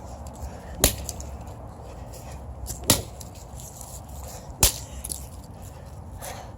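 Three sharp blows strike the circuit board and parts of a washing machine control panel, about two seconds apart.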